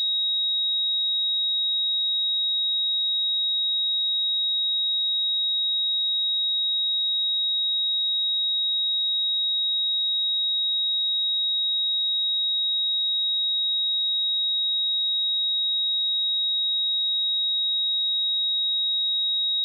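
Pure 3793 Hz sine-wave test tone, a single steady high-pitched whistle held at constant level without a break.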